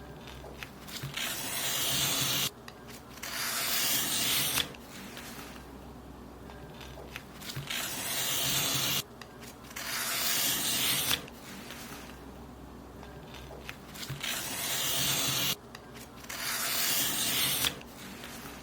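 Paper being cut in long strokes: six in all, mostly in pairs, each one swelling over a second or so and stopping abruptly.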